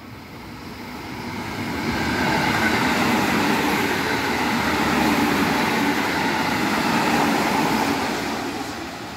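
A JR Central 313 series electric train passing at speed: its running noise swells over the first two seconds, stays loud, then eases off near the end as it goes by.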